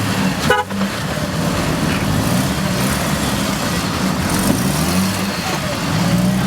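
Off-road vehicle engine running at low revs, its pitch rising and falling a little with the throttle as it works over a trail obstacle.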